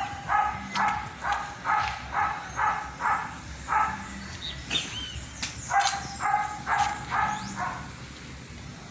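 A dog barking repeatedly in quick runs of short, high barks, about two or three a second, with a pause of about two seconds in the middle before a second run.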